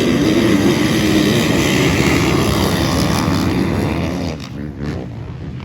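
A pack of motocross dirt bikes running at high revs and pulling away, many engines overlapping with a wavering pitch. The sound fades noticeably about four and a half seconds in.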